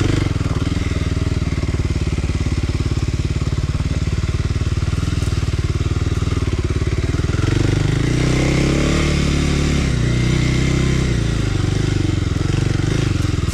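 Kawasaki KLX300R's single-cylinder four-stroke engine running continuously while being ridden, its pitch rising and falling several times with the throttle.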